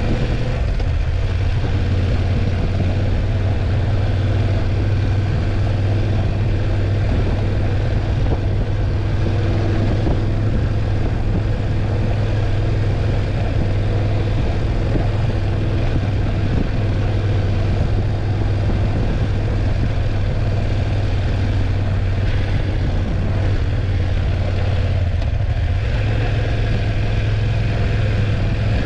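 BMW F850GS's parallel-twin engine running at steady revs on the move.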